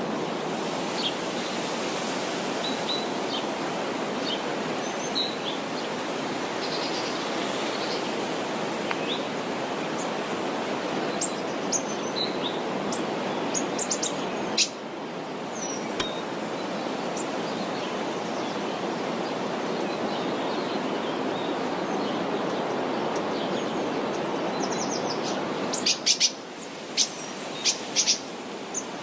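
Songbirds chirping in short, scattered calls over a steady rushing background noise, with a quick run of sharper chirps near the end.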